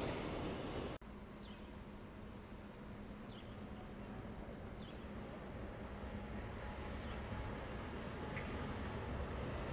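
The noise of a passing tram carries on for about a second, then cuts off suddenly. After that, small birds chirp over and over above a faint, steady city hum.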